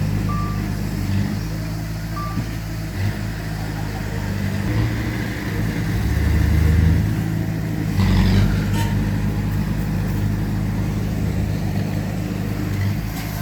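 Diesel engines of heavy earthmoving machines, a bulldozer and a dump truck, running steadily under load, with a low drone that shifts in pitch about six and eight seconds in.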